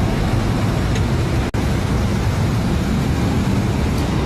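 Steady road and engine noise of a moving car, with a momentary dropout about a second and a half in.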